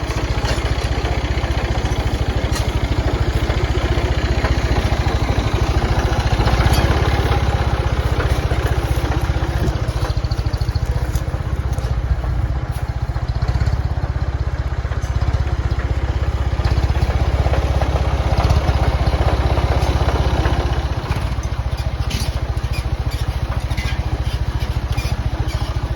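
Tractor engine running steadily, with a few sharp clicks near the end.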